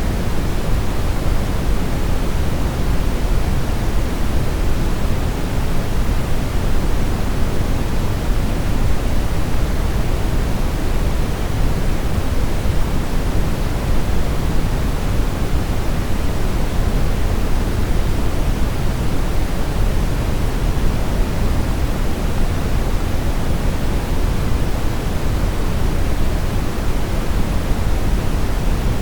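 Steady brown noise: an even, deep rush with most of its weight in the bass and a softer hiss above, unchanging throughout.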